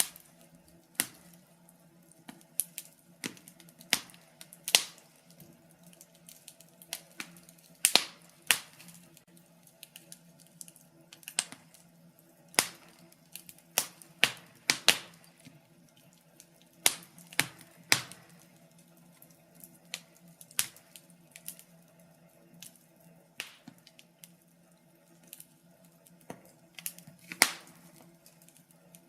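Wood fire burning in a fireplace, crackling and popping at irregular intervals, with a few louder snaps, over a faint steady hum.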